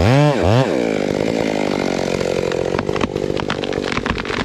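Gasoline chainsaw revved up and down twice in quick succession, then running steadily at high speed, cutting, with scattered sharp clicks.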